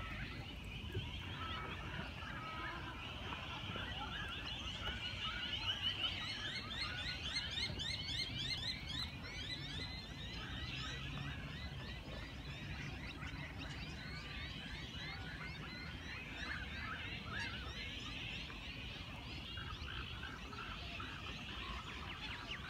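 A chorus of many small birds chirping and calling, with a run of rapid repeated notes from about six to nine seconds in, over a low steady rumble.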